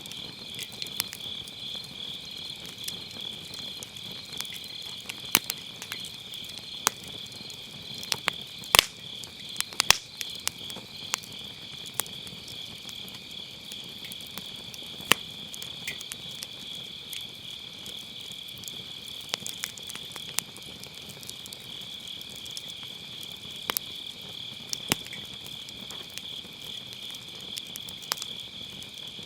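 Firewood burning and crackling, with scattered sharp pops, the loudest about nine seconds in. Behind it runs a steady, high chorus of autumn night insects.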